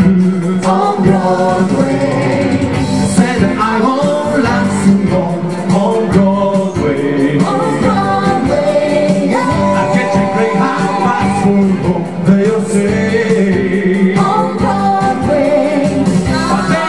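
Pop band music with a sung melody line of held and moving notes over steady accompaniment; no words are made out.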